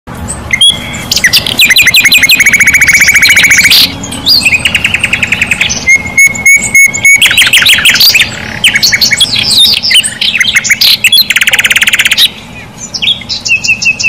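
Loud birdsong from several kinds of bird in quick succession: rapid chirping trills, a steady whistled note with clicks near the middle, a fast buzzing trill about twelve seconds in, and repeated high notes over a held tone near the end.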